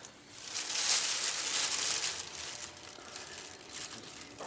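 Crinkling and rustling as something is handled, loudest in the first half and dying down.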